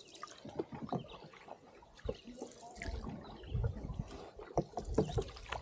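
Canoe being paddled: water trickling and splashing off the paddles, with scattered small knocks. A low rumble comes in about three seconds in.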